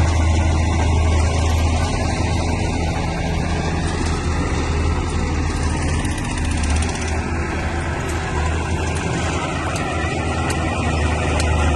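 Bulldozer's diesel engine running steadily under load, a deep constant hum.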